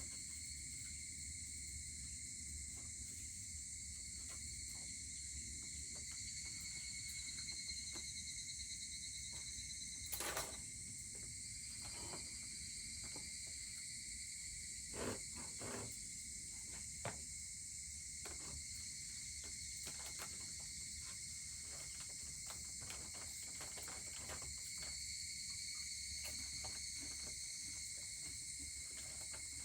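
Steady chorus of insects shrilling, with a wood fire crackling and popping at intervals; the loudest pops come about ten and fifteen seconds in.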